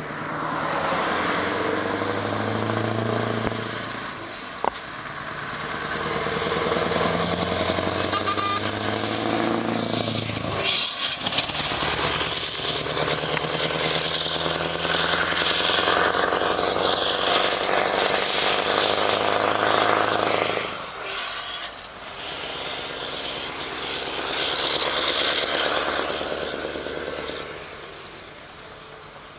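Scania R620's V8 diesel engine pulling hard and climbing through the gears, its note broken by gear changes about ten seconds in and again about twenty-one seconds in. The sound fades away near the end.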